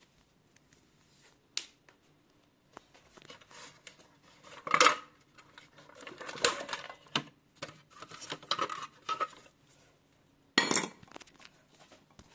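Irregular clinks, knocks and rustling of small hard pieces being handled and knocked together. The loudest clatters come about five seconds in and again near eleven seconds.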